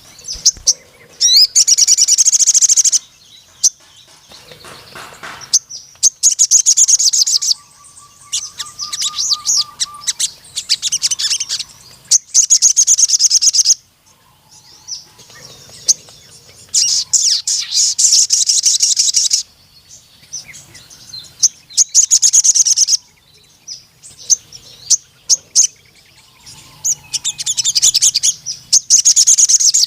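Sogon (crimson sunbird) singing in its full 'gacor' song: repeated high-pitched, very rapid trilled bursts of a second or two each, with short pauses between them.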